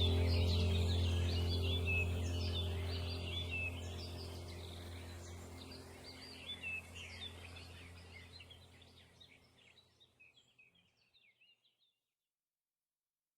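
Many small birds chirping and singing over a steady low drone, all fading out slowly to silence about ten seconds in.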